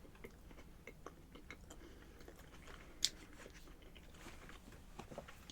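Close-up mouth sounds of a person chewing food, faint wet clicks and small crunches, with one sharper click about three seconds in.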